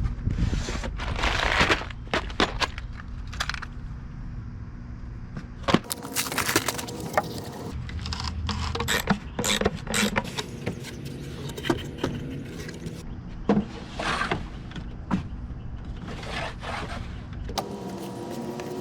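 Metal sockets clinking and scraping as they are handled, in irregular sharp clicks and knocks with a low steady rumble underneath for the first few seconds.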